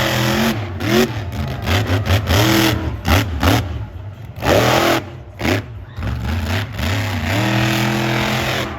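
Monster truck engine revving hard in repeated bursts, its pitch climbing and falling with each stab of the throttle, with a brief lull about halfway through.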